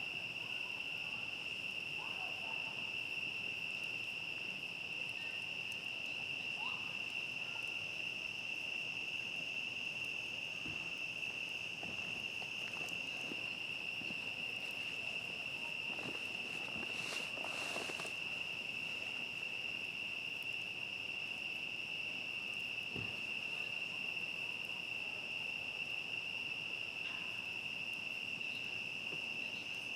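A steady chorus of crickets trilling on one high, unbroken pitch, with a few faint scattered clicks and a brief rustling patch a little past the middle.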